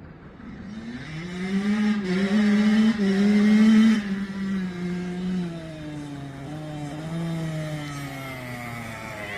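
Kawasaki KX85 two-stroke dirt bike engine with an FMF Shorty silencer, revving up. Its note climbs in the first two seconds and is loudest until about four seconds in, then drops in level and its pitch slowly sinks, leaving a quieter, lower running note.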